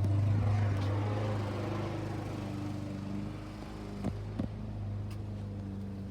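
Old classic car's engine running steadily, growing gradually quieter, with two sharp clicks about four seconds in.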